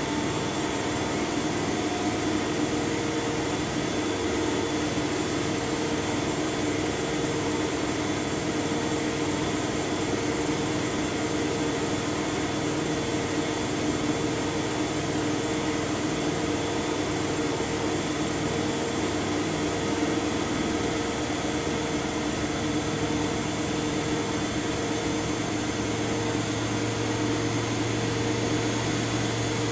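Front-loading washing machine running with a steady motor whine and whir, a low hum joining about three quarters of the way through.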